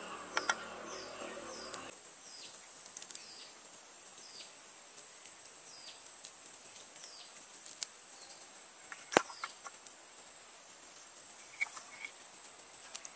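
A forest bird calls with a series of short, high, falling notes, about one a second, for the first eight seconds or so, over a steady high-pitched hum. A sharp click about nine seconds in is the loudest sound, and lighter clicks follow about twelve seconds in, as bamboo skewers and fish are handled over a metal pan.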